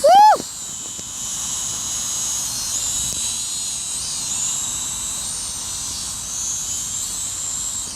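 Small quadcopter drone in flight, its propellers and motors giving a steady high whine whose pitch wavers slightly up and down as it manoeuvres. A short shouted "Woo!" right at the start.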